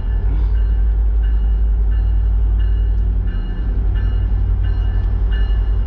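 Train at a station: a locomotive engine rumbling low and steady, with a bell ringing in an even rhythm, about three strokes every two seconds.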